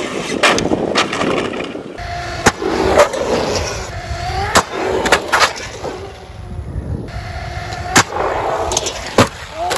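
Traxxas Maxx V2 RC monster truck's electric motor whining as it revs up and down, with tyres on asphalt and about nine sharp cracks of the truck landing, flipping and slapping down on the pavement.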